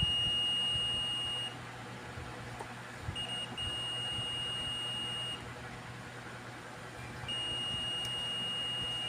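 Multimeter continuity beeper sounding a steady high tone three times, each beep about two seconds long, with a short blip just before the second. The tester is across a part that conducts, reading as intact.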